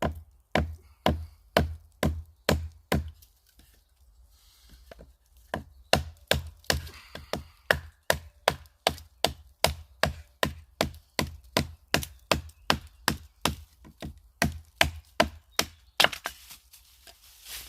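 Batoning firewood: a wooden baton knocking on the spine of a chopping knife to drive it through small pieces of wood, about two sharp knocks a second. The knocks pause for about two seconds a few seconds in, then start again.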